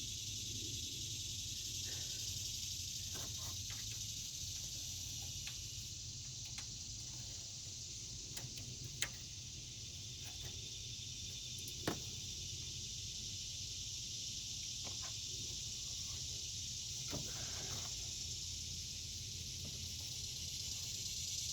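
A steady high hiss, like insects chirring, over a low hum, with scattered faint clicks and two sharper metallic clicks about nine and twelve seconds in from hand work on the AC line fittings.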